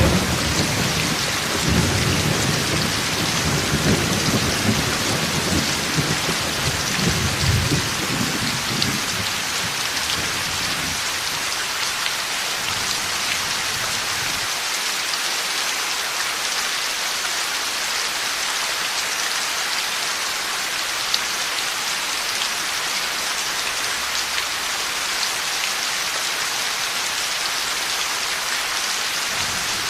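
Heavy rain falling steadily during a thunderstorm. A rumble of thunder dies away over the first several seconds, leaving the rain on its own.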